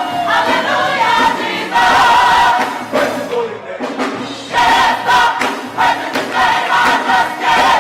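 Gospel choir singing, in sustained phrases with a short lull in the middle.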